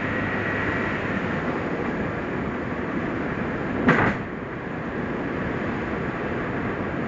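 New-model Suzuki Jimny driving down a mountain road: steady engine and road noise, with a sharp double thump about four seconds in.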